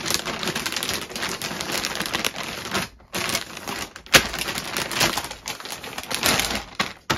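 Plastic vacuum storage bag crinkling and rustling as clothes are stuffed into it, with rapid clicks and crackles. It pauses briefly about three seconds in, and there is a sharp click about a second later.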